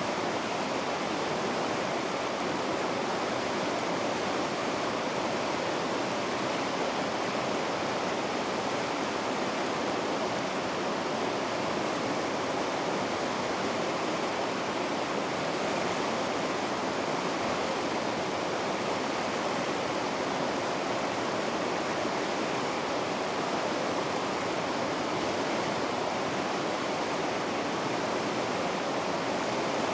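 River rapids rushing steadily, a constant even roar of white water with no breaks or changes.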